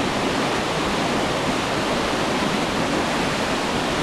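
Whitewater river rapids rushing over rocks, a loud steady wash of water noise.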